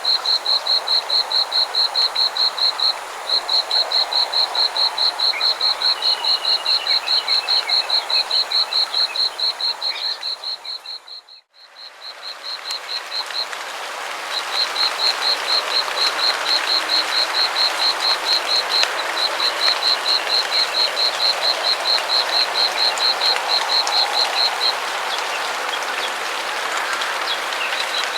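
Frogs calling: a near frog repeats a rapid high-pitched pulsing trill, about eight pulses a second, in long runs, over a dense chorus of more distant frogs. About eleven seconds in, the sound dips almost to silence and swells back.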